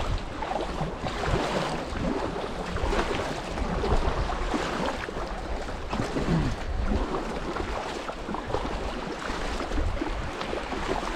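Moving creek water splashing around a kayak, with gusts of wind rumbling on the microphone.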